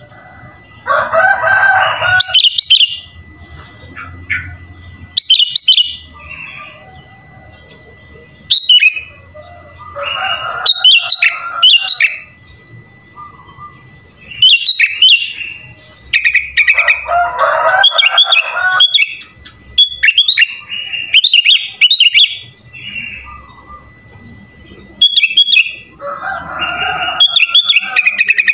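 Sooty-headed bulbul (kutilang) singing in loud bouts every few seconds, its varied song mixing lower bubbling phrases with sharp high chirps. A faint steady high tone runs underneath.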